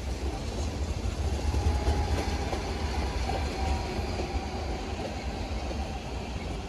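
DSB Litra SA S-train, an electric multiple unit, running along the platform with a steady low rumble that is loudest about two seconds in and then eases off.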